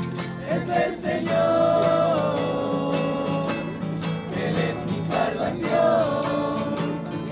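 A group sings a Spanish worship song, backed by a rattle or shaker that keeps a steady, even beat.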